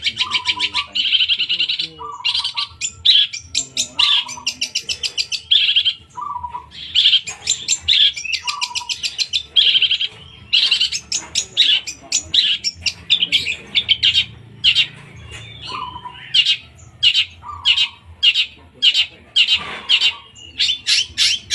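Long-tailed shrike (cendet) singing a loud, fast chattering song: bursts of rapidly repeated high notes with short gaps, broken by lower single notes. This is the rapid burst phrase that shrike keepers call a "tembakan" (shot).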